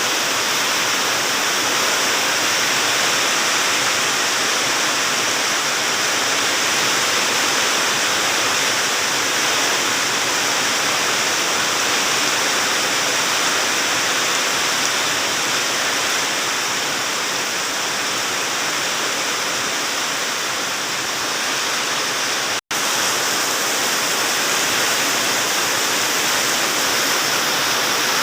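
Heavy rain pouring steadily in a storm, a dense even hiss with no let-up; the sound drops out for an instant about two-thirds of the way through.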